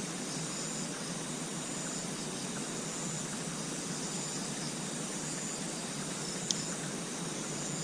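Steady hiss of outdoor night ambience, with a short high insect call repeating about once a second. A single sharp click about six and a half seconds in.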